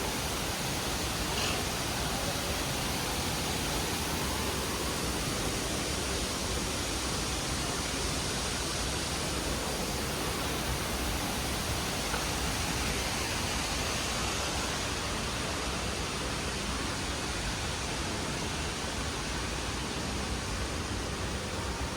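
Steady rushing cabin noise inside an Airbus A320 airliner, the even blend of engine and airflow noise, holding constant throughout.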